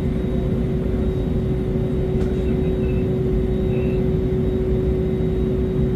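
Steady drone of an aircraft, a deep rumble under a constant hum.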